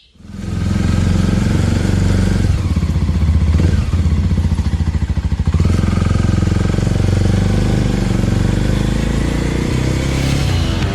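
Motorcycle engine running steadily under way, with a rush of air over it and small shifts in pitch about two and six seconds in.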